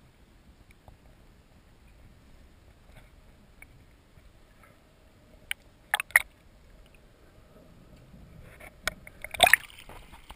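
Faint water hiss with scattered small clicks and a few sharp knocks, the loudest about six seconds in, growing into a cluster of knocks and clatter near the end.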